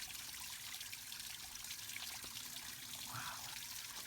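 Small waterfall trickling and splashing steadily over layered rock into a clear pool in a wet-weather creek that is running after recent rain.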